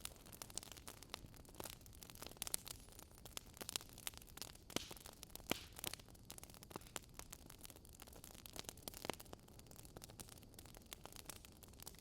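Wood fire crackling, with many irregular sharp pops and snaps over a faint steady background noise.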